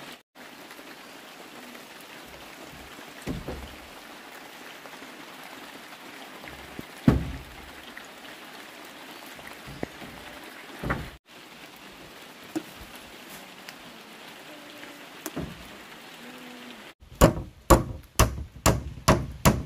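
Steady rain falling, with a few scattered heavy thuds and, near the end, a quick run of loud knocks at about three a second.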